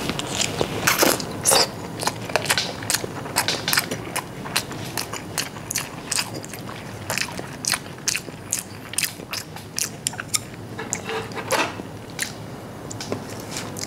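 A person chewing a mouthful of salmon sushi close to a clip-on microphone: wet lip smacks and mouth clicks, several a second, in an irregular run.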